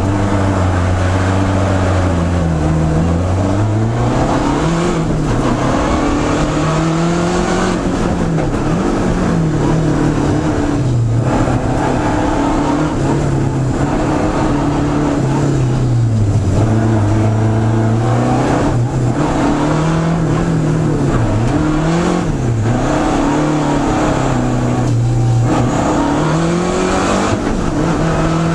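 Lancia Delta Integrale rally car's turbocharged four-cylinder engine, heard from inside the cabin, revving up and dropping back over and over as the car is driven hard, with brief dips in the note every few seconds.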